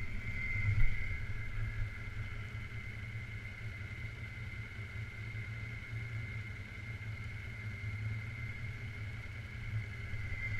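Suzuki King Quad 750 AXi ATV engine running steadily at low revs, with a steady high whine alongside it and one short knock about a second in.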